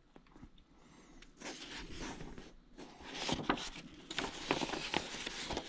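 Paper rustling and handling noises, like the pages of an instruction manual being turned, with a few light clicks. It starts about a second and a half in.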